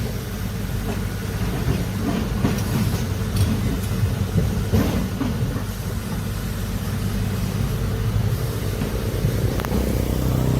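Heavy diesel earthmoving machine running steadily, a continuous low rumble with a few faint knocks.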